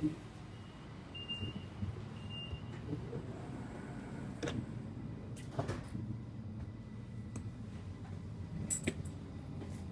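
Steady low rumble of a passenger train heard from inside the carriage. Two short high beeps come about a second in, and a few sharp clicks and knocks follow later.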